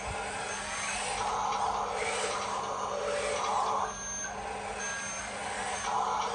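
Radio-controlled toy dump truck running, its electric motors and gears making a steady noise with repeated swells, broken by short electronic beeps several times.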